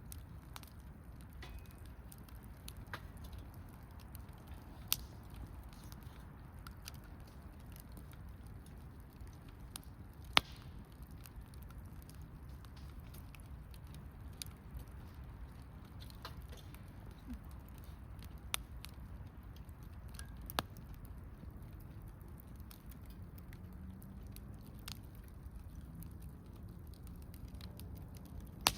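Small wood campfire burning, with sparse sharp pops and crackles from the burning wood. A few louder pops come about 5, 10 and 20 seconds in and near the end.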